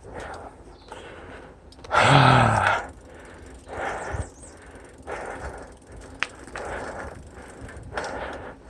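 Mountain biker breathing hard from pedaling effort, deep breaths about once a second, with one loud groaning exhale falling in pitch about two seconds in.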